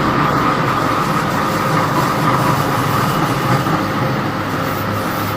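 Inside an MTR C-Train electric metro car running at speed: steady rumble of wheels on rail with a constant whine over it.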